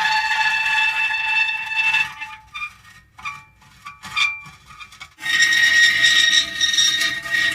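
Metal creaking: long, high-pitched groaning squeals that hold steady. They break into a quieter, halting stretch of short creaks and then swell back into a loud sustained squeal about five seconds in.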